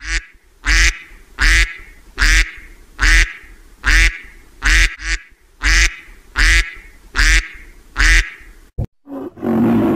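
Mallard duck quacking: a steady series of about eleven loud, harsh quacks, a little under a second apart. A different, lower sound starts in the last second.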